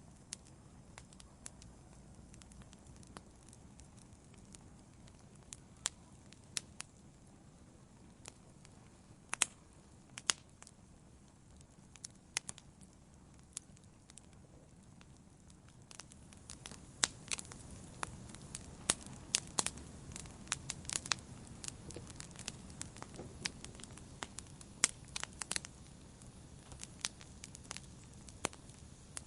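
Wood campfire burning with a low rumble of flame and scattered sharp crackles and pops, sparse at first and growing busier about halfway through.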